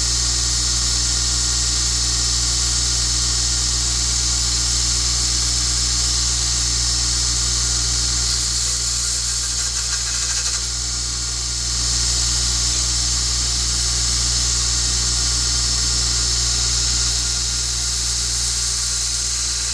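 Electric grinder running steadily as a forged steel part is ground clean, a continuous whine with hiss, easing briefly about halfway through.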